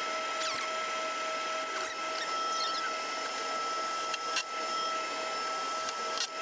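Steady whine and hiss of running boiler-room equipment, with a few short high squeaks and a couple of sharp clicks near the end.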